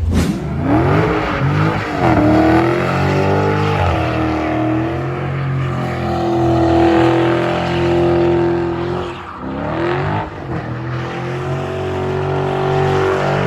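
Car engine accelerating hard, its pitch climbing and falling back with gear changes, with a break in the pull about nine to ten seconds in.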